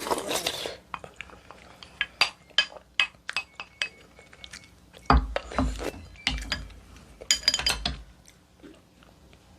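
Eating utensils clinking against tableware: a long run of sharp clinks, a few of them ringing briefly, with some dull knocks in the middle.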